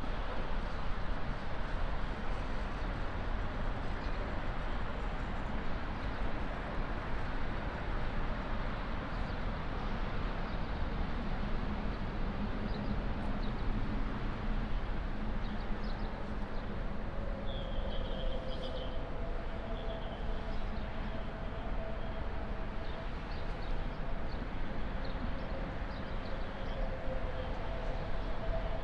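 Steady rumble and hiss of Metro station ambience, with faint humming tones coming in about halfway through.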